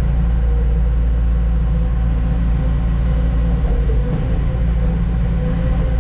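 Heavy diesel truck engine running steadily, a low drone that holds an even pitch and level throughout.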